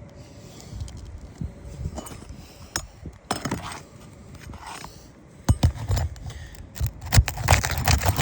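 A roof shingle being worked loose from its sealed strip by hand: scattered scrapes and clicks, then a run of louder knocks and thumps from about halfway through.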